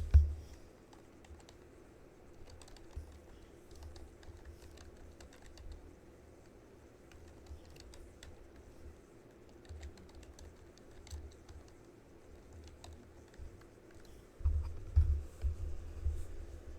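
Faint, scattered clicking of typing on a computer keyboard, heard through a cheap microphone over a steady low hum. Near the end come a few heavier low thumps.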